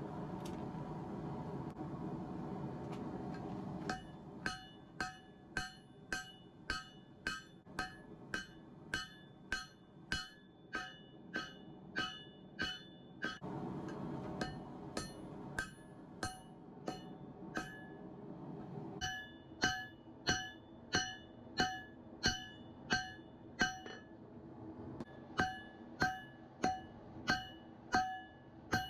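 Hand hammer striking hot steel on an anvil while forging a Damascus knife: spells of ringing blows, about two a second, each with a bell-like anvil ring. Between the spells come a few seconds of low, steady rushing noise.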